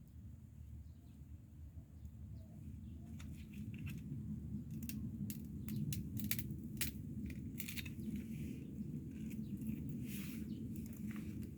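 Wood bonfire crackling: sharp pops and snaps start about three seconds in and come more often as the fire takes, over a low steady rumble.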